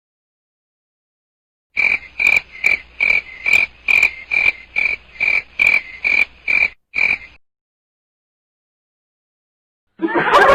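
Frog croaking: a dozen or so short, evenly spaced croaks, about two and a half a second, lasting five or six seconds and then stopping.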